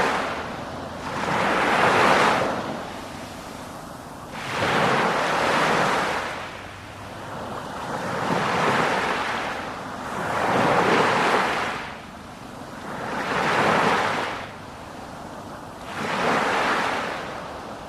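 Sea waves surging and washing in, the noise swelling and falling away about every two to three seconds.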